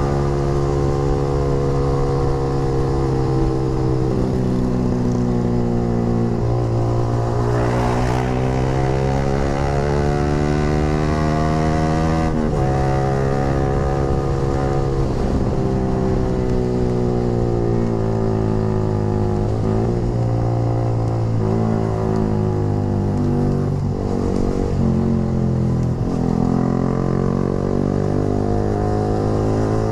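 Yamaha R15 V3's single-cylinder engine through a short Proliner aftermarket racing exhaust, ridden on the road. The exhaust note climbs and falls several times as the throttle opens and closes, with a sharp drop in pitch about twelve seconds in.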